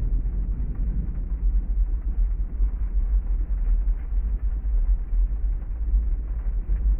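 Steady heavy rain with a continuous deep rumble underneath, part of a thunderstorm ambience.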